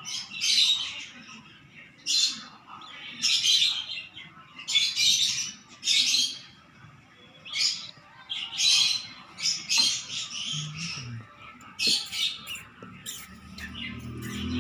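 Baby cockatiel chick giving raspy, hissing begging calls, about a dozen short squawks roughly once a second, typical of a chick calling for food during hand-feeding.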